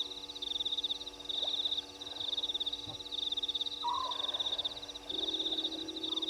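Night chorus of frogs at a waterhole: a high, pulsing trill repeating in bouts of about half a second, a short falling call about four seconds in, and a low steady trill joining about five seconds in.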